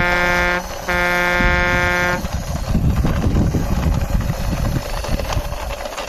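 A truck horn sounds twice, a short blast and then a longer one, followed by a rough rumbling and crackling as the plastic toy dump truck's wheels are pushed along a stone ledge.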